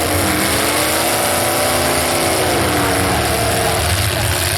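Demolition derby cars' engines running and revving, pitch rising and falling over a steady din.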